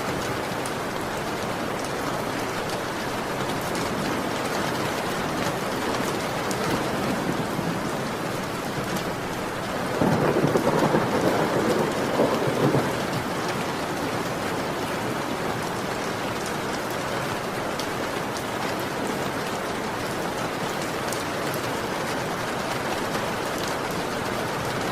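Heavy rain falling steadily, with a rumble of thunder swelling up about ten seconds in and lasting about three seconds.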